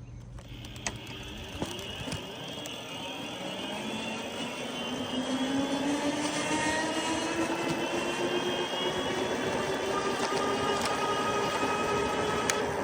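Lectric e-bike's electric hub motor whining as the bike picks up speed, its pitch rising steadily over several seconds, over wind and tyre noise that grows louder. A few light clicks near the start.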